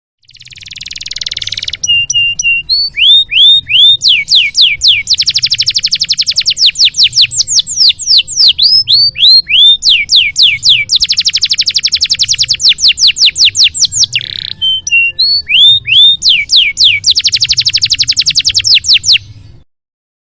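Domestic canary singing a long, varied song: a harsh rasping phrase, then fast trills and runs of quick swooping whistles, broken briefly by another rasp about two-thirds through. A faint low hum lies under the song, which stops abruptly near the end.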